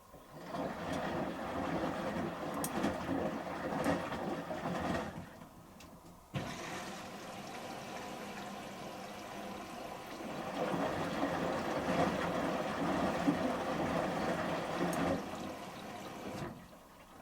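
Front-loading washing machine drum turning shirts through rinse water during the final rinse, with sloshing and splashing. It comes in two turns, a short one, then, after a brief pause, a longer one that begins with a knock.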